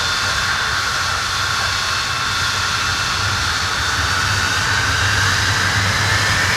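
Avro Vulcan's Rolls-Royce Olympus turbojets running on the ground: a loud steady rumble with high whines that rise slowly in pitch over the last few seconds as the engines spool up.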